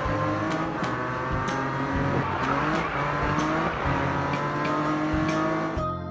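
Cartoon racing-car engine sound effects: several engines revving with slowly gliding pitches.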